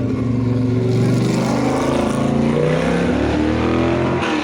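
Rally car engine accelerating hard, its pitch climbing, then dropping sharply near the end.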